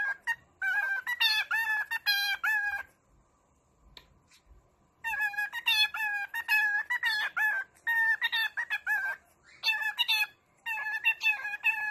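A bird calling in bouts of rapid, wavering notes that last a second to a few seconds each, with short pauses between them.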